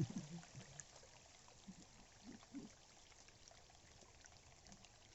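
Faint steady noise of running water, with a few brief faint voice sounds about two seconds in.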